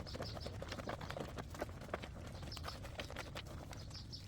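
Clothes being scrubbed by hand with a laundry bar on a concrete washing station: a run of irregular rubbing and knocking strokes.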